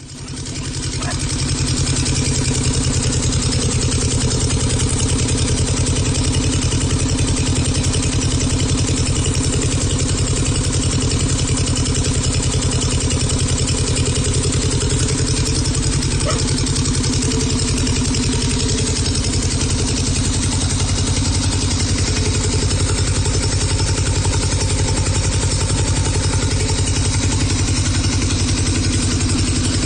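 Vintage two-cylinder Volvo Penta petrol marine engine running steadily on its first run after a full rebuild, firing in a fast, even rhythm.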